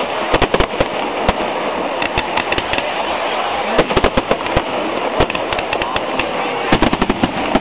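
Fireworks display: shells bursting in sharp bangs, in quick clusters about half a second in, around four seconds and again near the end, over a continuous crackling rush.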